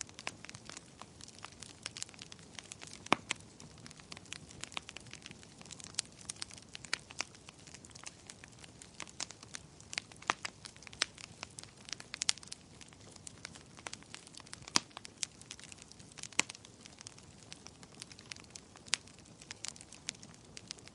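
Wood fire crackling and popping: irregular sharp snaps, a few louder pops among them, over a low, steady hiss.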